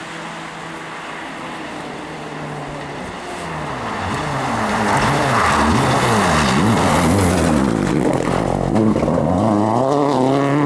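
Rally car engine coming closer, getting much louder from about four seconds in, its revs rising and falling repeatedly as the driver works the throttle and gears, with a sharp rev-up at the very end.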